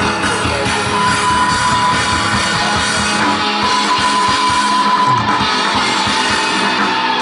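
Live post-rock band playing: electric guitars and a drum kit, with a high guitar note held over a dense wall of sound.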